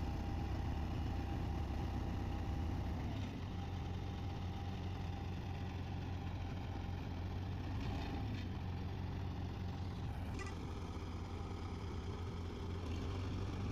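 A vehicle engine running steadily near idle, a constant low hum with no revving.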